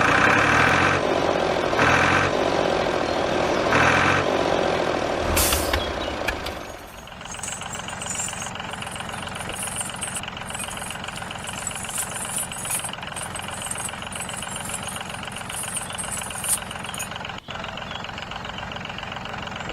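A vehicle engine running, louder and swelling about every two seconds for the first six seconds, then settling into a steadier, quieter run.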